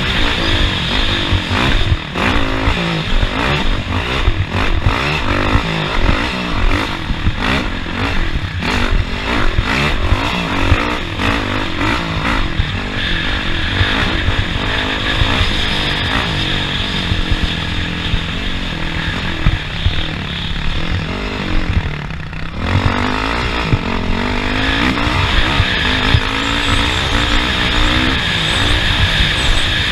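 Off-road racing vehicle's engine revving up and down under load over rough ground, with frequent knocks and rattles from the bumps. The engine briefly lets off about two-thirds of the way through, then pulls again.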